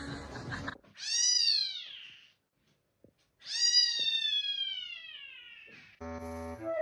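Cat meowing twice: a short meow that rises and falls, then after a pause a longer one that falls slowly in pitch. Music with woodwind-like notes starts near the end.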